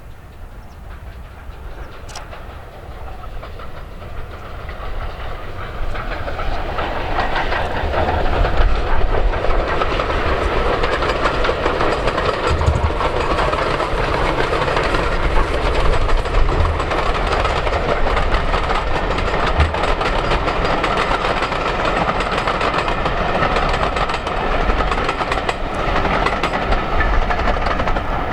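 Steam train running past on the line, wheels clattering over the track. It grows louder over the first several seconds as it approaches, then stays loud and steady as it goes by.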